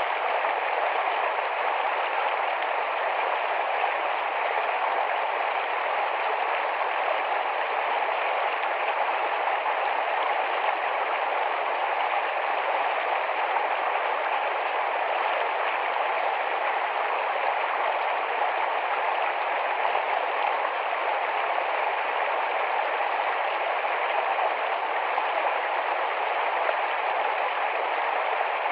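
Small, fast forest stream rushing and babbling over rocks in a steady, unbroken wash of water noise.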